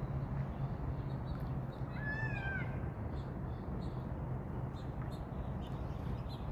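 A kitten meows once, a short high-pitched call about two seconds in, over a steady low rumble.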